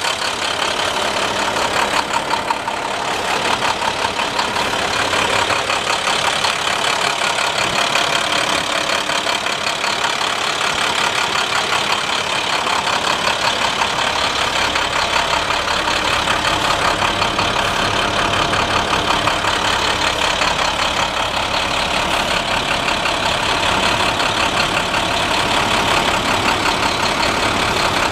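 Diesel engine of a 2013 International 4300 truck idling steadily, with a low rumble that grows stronger partway through.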